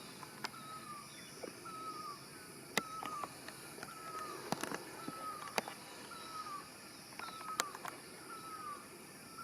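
A bird's short, falling chirp repeated about once a second, over light background hiss with a few sharp clicks.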